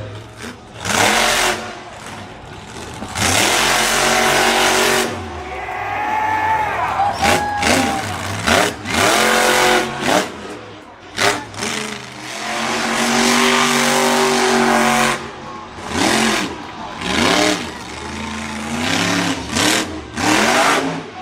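Monster truck engine revving hard in repeated throttle bursts, its pitch rising and falling with each stab. It is held at high revs for a couple of seconds at a time, twice.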